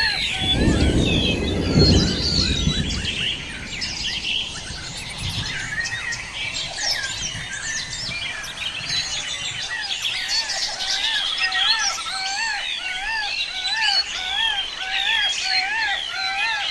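Outdoor chorus of many birds chirping and singing at once. One bird repeats a short rising-and-falling call over and over, about three calls every two seconds. A low rumble sounds near the start.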